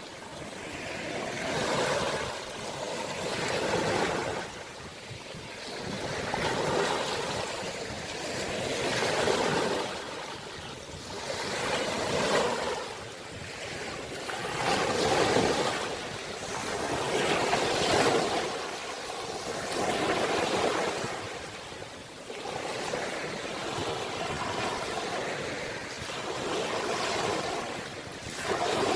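Ocean waves breaking and washing on the shore, the surf rising and falling in repeated swells every two to three seconds.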